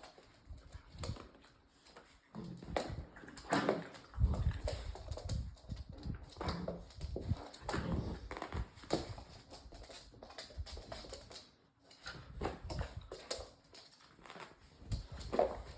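Labrador puppies playing and scuffling, their claws tapping and skittering irregularly on a hard floor.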